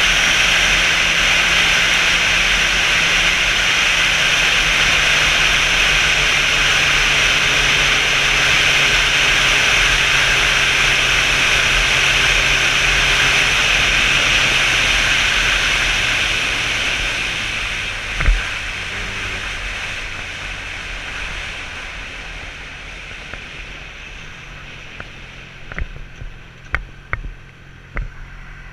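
Motorcycle riding at speed: a steady rush of wind noise over a low engine hum, which fades away as the bike slows after about the first half. A single thump comes shortly after it begins to slow, and a few sharp clicks near the end.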